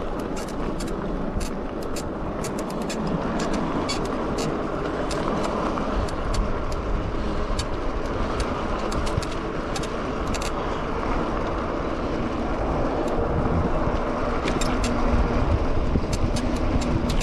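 Cyrusher XF900 fat-tire e-bike riding along pavement: a steady rush of wind and tire noise with irregular sharp clicks from the bike, which the rider takes as a sign it needs some oil.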